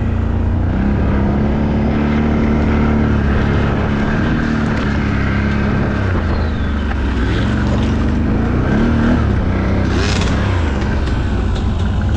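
ATV engine running under way off-road, its pitch rising and falling with the throttle, over a steady rush of noise.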